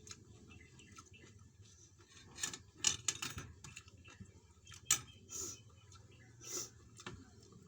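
Close-up eating sounds: a scattering of short wet smacks and clicks from chewing, the loudest about three and five seconds in.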